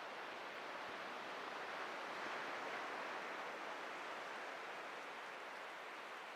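Atlantic surf washing onto a beach: a steady hiss of breaking waves that swells a little about two seconds in and eases off again.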